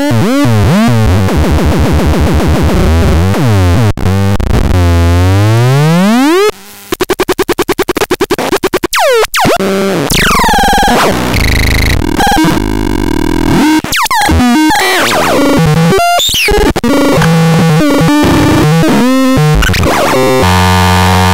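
Megastron Micro electronic synthesizer making loud warbling tones and fast rising and falling pitch sweeps. About six and a half seconds in it drops quieter into a fast stutter, and near the end it settles into a steady buzzing pattern.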